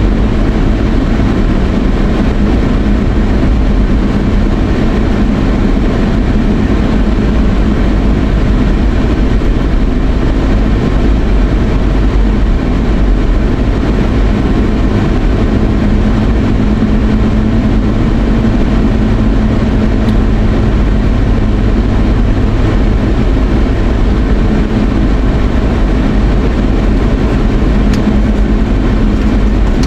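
Car driving, heard from inside the cabin: a steady low road and engine rumble with no change throughout.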